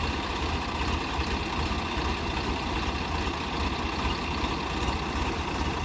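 Swaraj tractor's diesel engine running steadily, with a strong low rumble.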